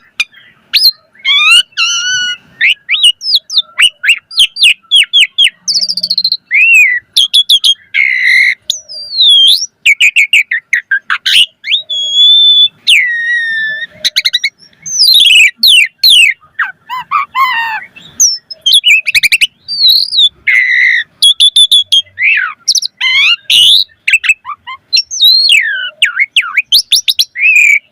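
Asian pied starling singing a long, varied, loud song: sweeping rising and falling whistles mixed with runs of rapid clicks and trills, without a pause.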